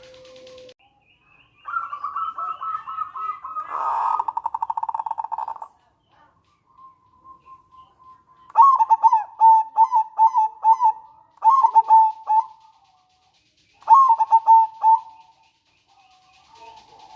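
Zebra dove (perkutut) calling: a fast rattling, pulsed call for about four seconds, then bursts of quick, short cooing notes in its staccato song.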